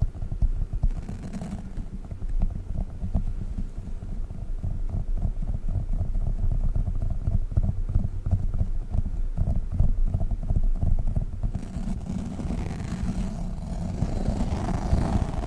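Sticky gel toys (Globbles) being squished and pulled in the hands, giving a dense, continuous run of low, tacky crackles and pops.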